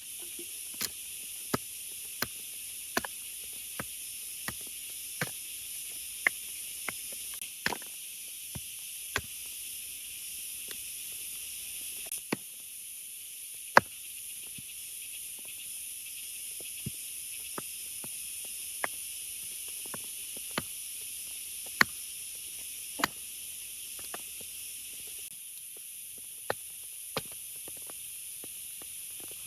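Steady high hiss of rain, with large water drops hitting sharply at irregular intervals, about one or two a second.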